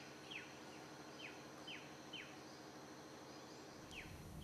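Faint outdoor nature sound: a bird giving about half a dozen short chirps that fall in pitch, spaced irregularly, over a faint steady high insect hum.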